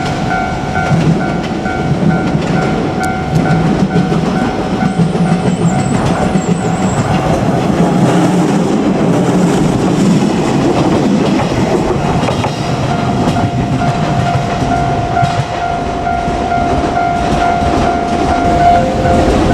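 JR Kyushu 817 series electric train passing over a level crossing, its wheels clattering over the rail joints with a heavy rumble. The crossing's warning bell rings in a steady pulsing tone, partly drowned by the train in the middle and clear again near the end.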